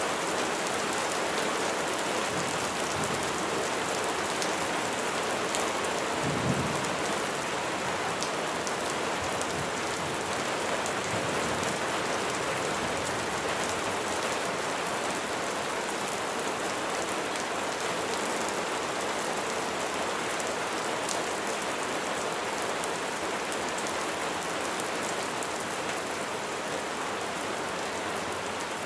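Steady heavy rain falling and splashing on surfaces, with one brief low thump about six seconds in.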